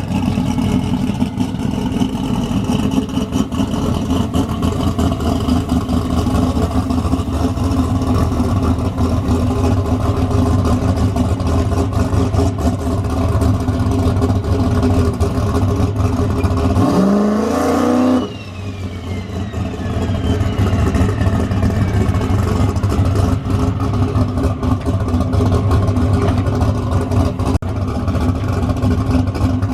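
Drag race car engine idling with a loud, rough rumble. About 17 seconds in it revs sharply and cuts off, and a high whistle slides down in pitch over the next few seconds before the rumble settles back in.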